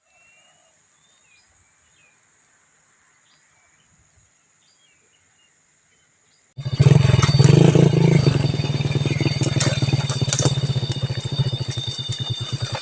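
Faint birds chirping over a steady high insect tone, then an abrupt cut about six and a half seconds in to a loud engine running close by, with a low hum and rapid even pulses.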